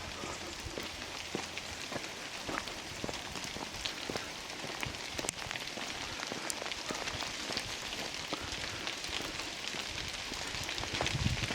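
Steady rain falling, with many single drops striking close by as sharp ticks. A few heavier low thumps come near the end.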